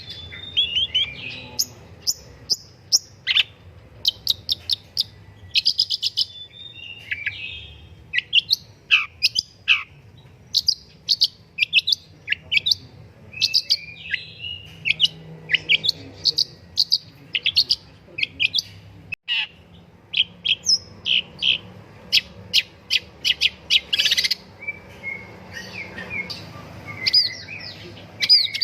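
Long-tailed shrike (pentet) in full song: a fast, varied stream of sharp chirps, short trills and quick gliding whistles, with only brief gaps.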